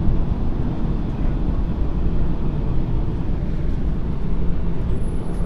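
Steady low rumble of a streetcar running along its track, heard from inside the car.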